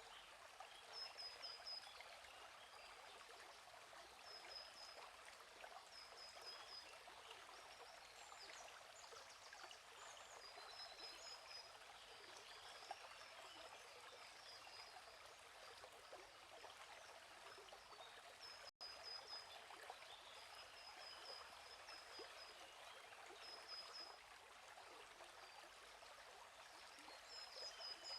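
A flowing stream babbling steadily, while a bird gives short, high chirps every second or two. The sound drops out for a split second about two-thirds of the way through.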